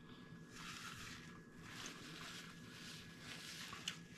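Faint chewing of a mouthful of bacon cheeseburger on a pretzel bun, mouth closed, in soft irregular pulses over a faint steady hum, with a small click near the end.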